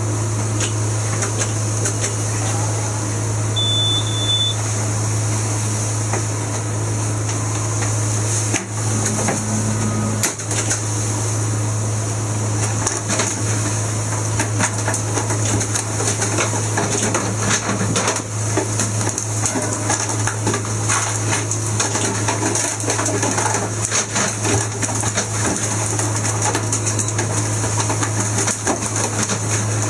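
Steady low drone of a fishing boat's engine, with scattered clicks and knocks over it.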